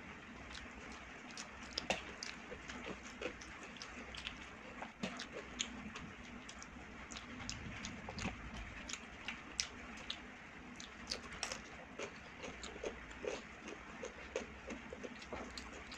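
Close-up eating sounds of rice and a cucumber slice being chewed: many small, irregular wet clicks and smacks of the mouth.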